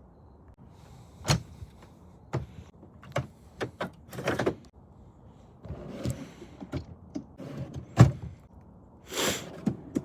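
Knocks and clunks of a van's doors and storage being handled and shut, with short rolling rushes like a sliding side door running on its track, and a heavy thud about eight seconds in.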